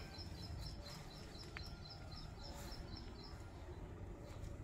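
A small bird calling in a fast series of high chirps, about four a second, which stops a little over three seconds in. Low steady outdoor rumble underneath.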